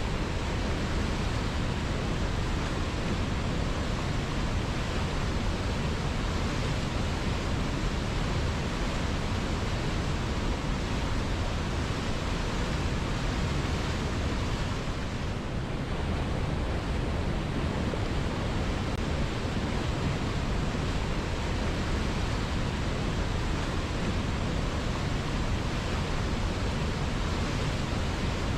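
River water flowing in a steady, unbroken rush, with no distinct splashes or drops standing out.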